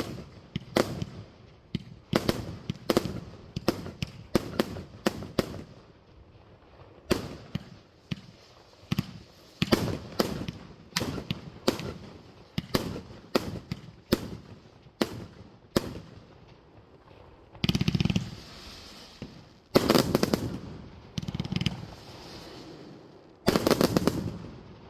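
Fireworks going off: a run of sharp bangs, often several a second with short pauses between volleys, then three longer bursts of dense crackling in the last seven seconds.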